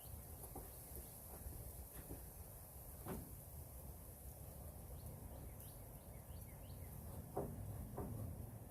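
A few faint, irregular knocks and clicks over a low steady rumble, from tools and the jack being handled during work on the truck's rear suspension.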